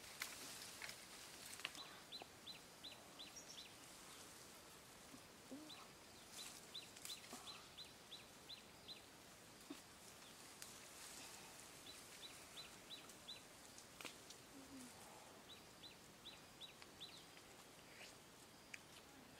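A small bird calling faintly in repeated runs of short, high, downward-slurred notes, about four a second, with four runs of five to ten notes each. Faint rustling and snapping of leaves and twigs from someone moving among tree branches.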